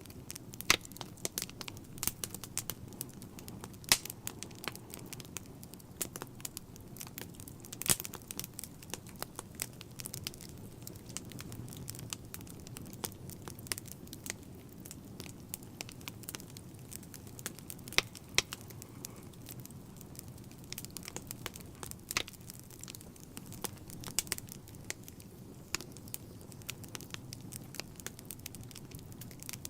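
Wood fire burning in a fireplace: steady low rumble of the flames with irregular crackles and occasional sharp pops from the burning logs.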